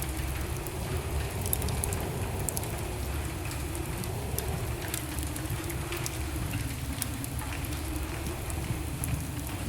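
Wood fire burning in a fireplace, crackling with many scattered small pops over a steady low rush of flame.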